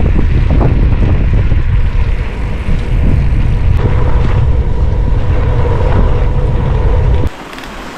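Loud, heavy wind rumble buffeting the microphone, with a faint steady whine in its second half. It cuts off abruptly about seven seconds in.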